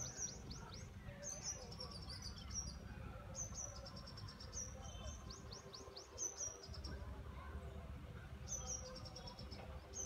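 A small songbird calling in repeated bursts of quick, high chirps that each sweep downward. The bursts come about once a second, with a pause of a couple of seconds past the middle.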